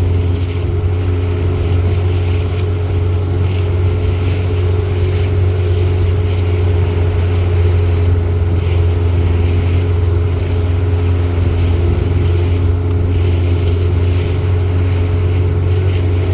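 Boat motor running steadily at an unchanging speed, with wind buffeting the microphone.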